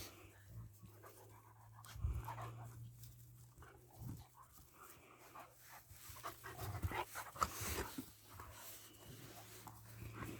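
German Shepherd dog panting, a run of quick breaths that grow louder about two-thirds of the way through.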